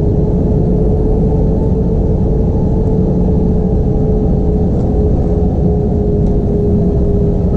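Steady drone of the Airbus A320's IAE V2500 turbofan engines heard inside the passenger cabin, a deep rumble with a constant hum held at one pitch.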